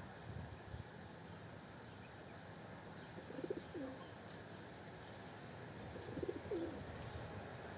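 A dove cooing: two short, low coo phrases, about three seconds apart, with faint chirps of small birds in the background.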